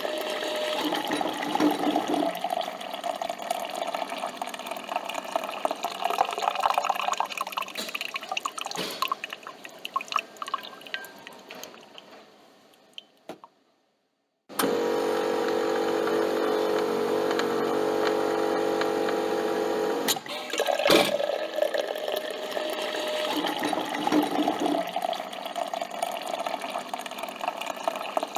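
Coffee machine brewing: coffee streaming and dripping into a cup, fading out about halfway through. After a brief silence the machine hums steadily for about six seconds, stops with a click, and the streaming and dripping start again.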